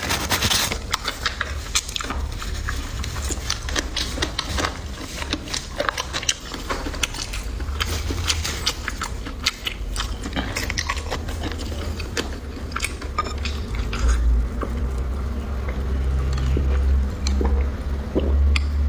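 Close-miked chewing and biting of food, with many short crisp crunches and clicks. The crunches thin out about two-thirds of the way through, giving way to a low rumble.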